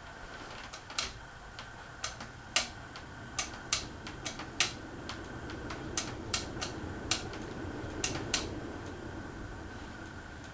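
Casablanca Panama 2 ceiling fan running with a steady hum, broken by irregular sharp clicks, roughly one or two a second. The owner traces the clicking noise to the fan's canopy.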